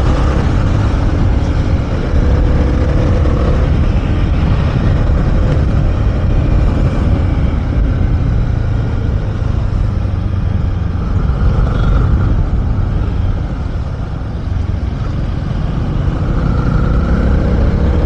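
Honda CB300R's single-cylinder engine running at road speed in fifth gear, under a heavy rush of wind on the microphone.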